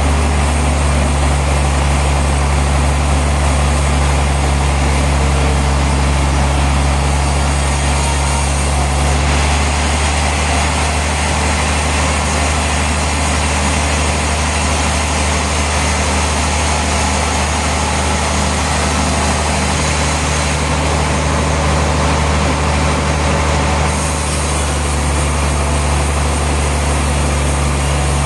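Sawmill machinery running steadily: a heavy engine drone with a dense rushing noise over it, changing slightly about ten seconds in and again near the end.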